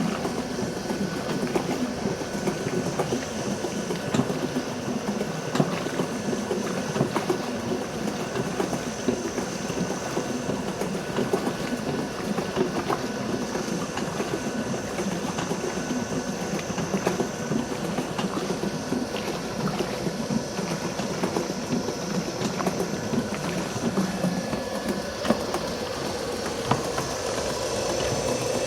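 Restored antique wooden washing machine running on a high-speed electric motor, its agitator mechanism working steadily with a dense clatter of clicks and knocks.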